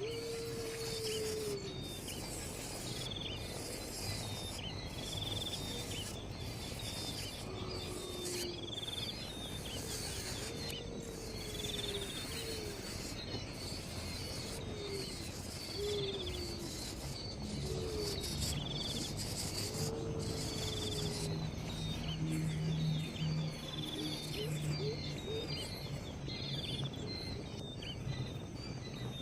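Insects chirring steadily, with repeated short bird chirps and low, brief, falling call notes every second or two. A low steady hum runs through the second half.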